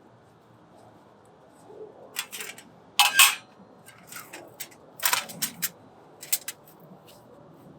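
A series of sharp, irregular clicks and cracks in short clusters, the loudest about three seconds in and again about five seconds in.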